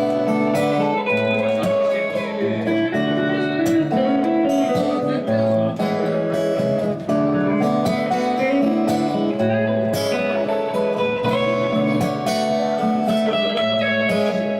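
Band music: an instrumental passage carried by guitar, with steady pitched notes over a regular beat and no singing.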